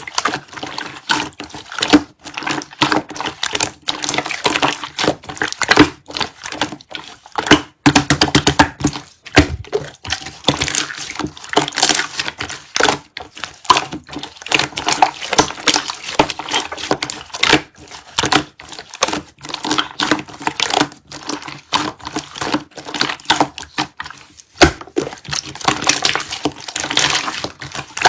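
Rapid, irregular clicking and tapping, many small sharp strokes in quick succession.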